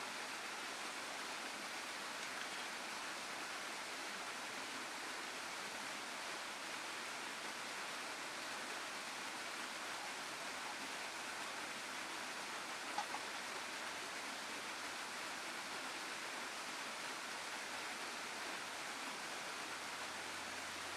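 Steady rush of a waterfall and stream, with one brief click about two-thirds of the way through.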